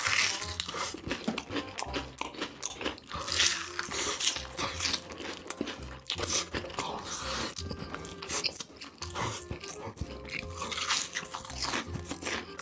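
Close-miked crunchy biting and chewing of food, many sharp crackling crunches in quick succession, as in eating ASMR.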